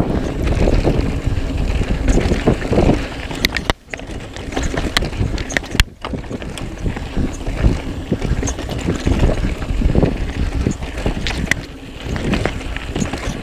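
Wind buffeting the microphone over the rumble of a mountain bike rolling on a rough trail, with sharp clicks and rattles from the bike. The noise drops out briefly twice, about four and six seconds in.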